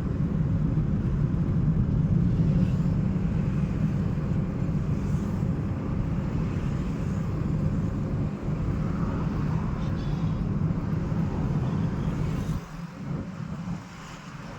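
Steady low rumble of a car on the move, road and engine noise, easing off about twelve seconds in.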